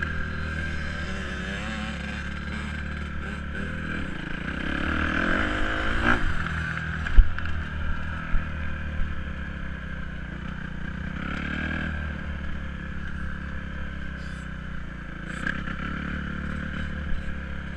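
Dirt bike engine running steadily, rising in pitch as it is revved about four to six seconds in, then settling back. A sharp knock comes about seven seconds in, with a few lighter clicks after it.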